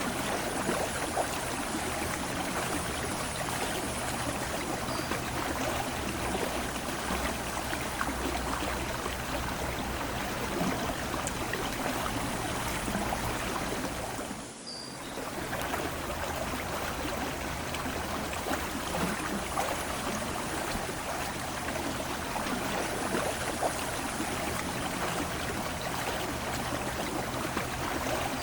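Aare river water flowing and rippling steadily at the bank, with a brief dip in level about halfway through.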